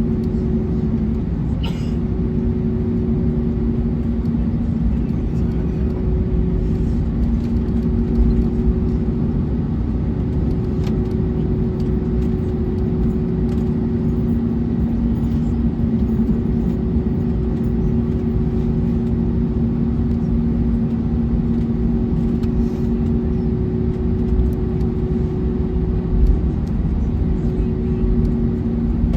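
Steady airliner cabin noise aboard an Airbus A321neo: a constant low rumble with a steady hum over it.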